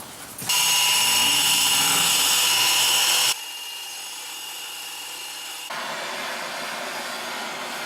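Power tool running with a steady high whine over a loud hiss, in three stretches that change abruptly in level and tone.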